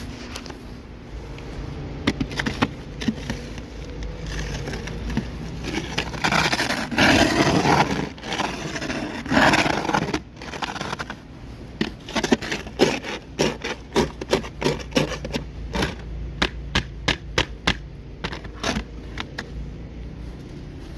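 Ice scraper working on a car coated in freezing-rain ice. A few seconds of long, grinding scrape strokes are followed by a run of short, sharp strokes about two a second as the ice is chipped away.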